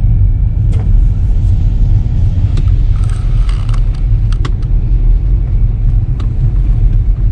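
A car driving on a highway: a steady low rumble of road and engine noise, with a few short sharp ticks.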